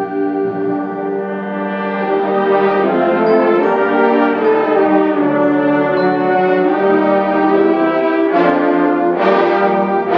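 Concert band playing a loud, sustained brass-led passage of held chords, with two percussion crashes near the end.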